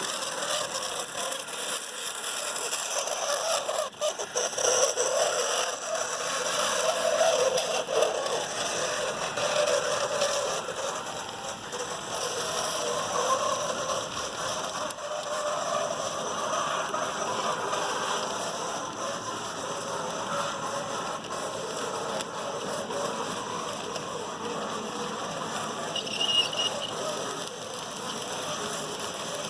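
HO scale model train running along the track, its locomotive motor and wheels making a steady whirring rattle. The locomotive is squeaky, with a brief high squeal near the end.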